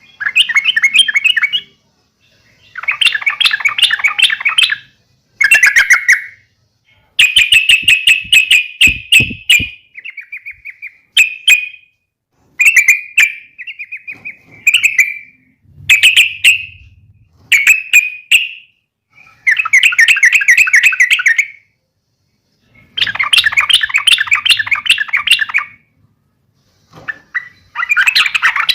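Yellow-vented bulbul (trucukan) giving loud bursts of bubbling, chattering song phrases with short pauses between them, the fighting-call style used to provoke other trucukan into answering.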